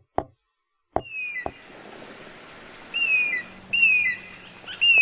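A bird calling: four short, high whistled calls that each drop in pitch, spread over a few seconds. A few faint knocks come near the start.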